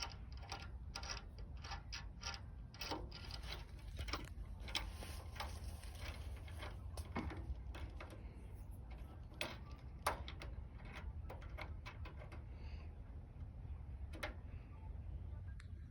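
Irregular small clicks and taps of a bolt and a light's metal and plastic parts being handled and turned by hand as the light is fastened on, with a few sharper knocks. A steady low hum runs underneath.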